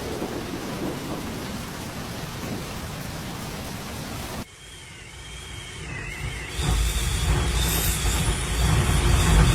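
Steady rush of stormy wind and rain. About four and a half seconds in it cuts to a quieter scene with a faint wavering whistle, then gusts of strong wind buffet the microphone with a loud low rumble.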